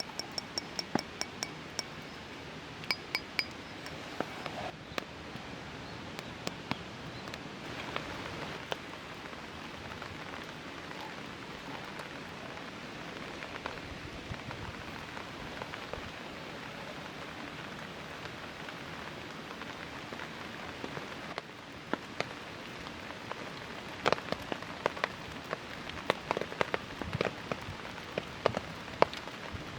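Steady rain pattering on a tarp, with light clinks and taps on top: a quick run of short, ringing clinks in the first few seconds, and a cluster of taps about three quarters of the way through.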